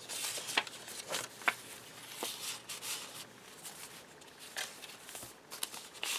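Paper rustling as the pages of a handmade journal and its loose paper ephemera are handled and turned: scattered short crisp rustles and light taps, with soft swishes in between.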